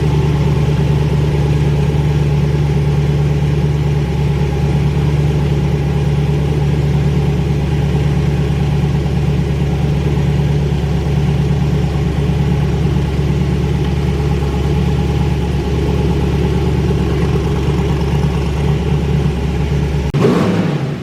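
Twin-turbo Camaro engine idling steadily, freshly restarted with its new wastegates venting open with no downpipes. About twenty seconds in, the steady note breaks off into a quick rev.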